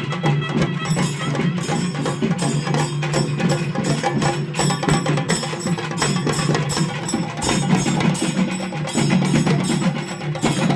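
Chenda melam: chenda drums beaten with sticks in a fast, dense, unbroken rhythm, over a steady low tone.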